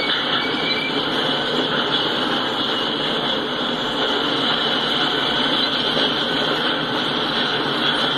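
Empty intermodal train cars rolling past on the rails: a steady rail noise with a high-pitched wheel squeal held throughout.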